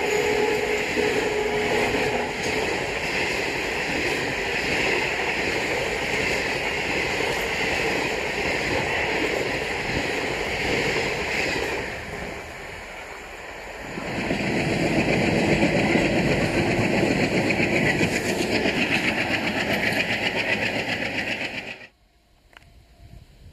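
Indian Railways passenger train running past at speed, a steady rush and clatter of wheels on the rails. The noise dips about halfway, comes back loud, then cuts off suddenly near the end.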